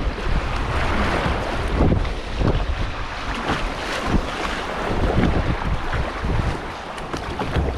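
River water rushing around a kayak, with heavy wind rumble on the microphone.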